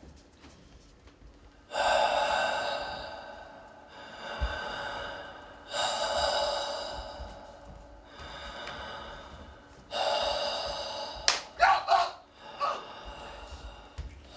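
A person gasping loudly for breath: five long, heaving gasps about two seconds apart, followed near the end by a few short, sharp sounds.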